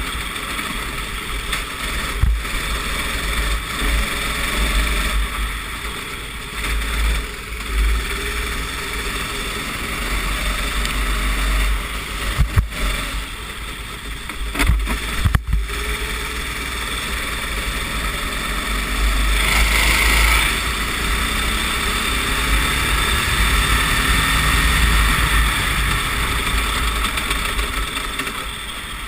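Racing kart engine running hard and revving up and down through the corners, heard on the kart's onboard camera with wind buffeting the microphone. A few sharp knocks come around the middle, and there is a short hissing burst a little later.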